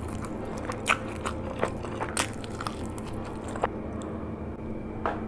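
Close-miked biting and chewing of food, with several sharp crunches spaced irregularly through the chewing.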